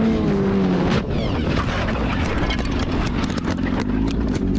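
Motorcycle engine still running after a crash, with a wavering pitch in the first second, then a rough steady running sound scattered with many short clicks and knocks.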